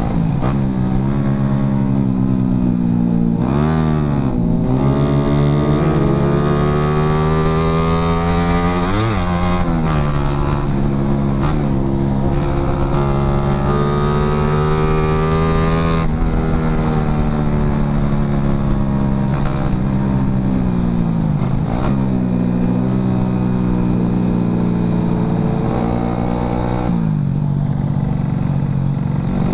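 Yamaha Jupiter Z underbone motorcycle's single-cylinder four-stroke engine running under way, close to the onboard microphone. The revs hold steady for long stretches and swing sharply up and down several times with throttle and gear changes, over steady wind and road hiss.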